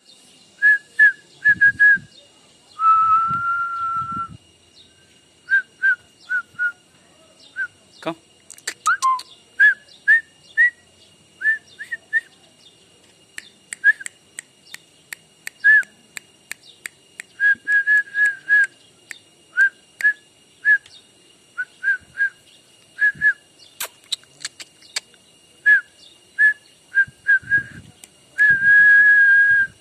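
Repeated short, high whistled notes, mostly at one pitch, in quick runs of two to four, with a longer held whistle about three seconds in and another near the end. A few sharp clicks sound in between.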